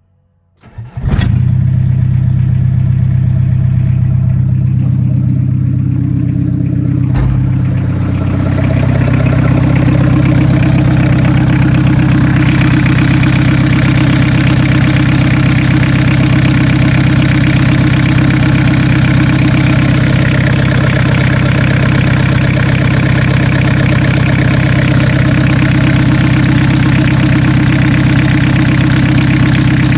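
Toyota Carina E 2.0 diesel engine starting about a second in and then idling steadily, with a single click about seven seconds in.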